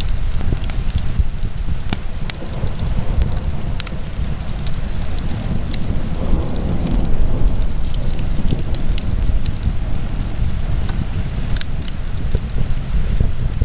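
Fire burning in a fireplace: a steady low rumble with frequent scattered crackles and pops.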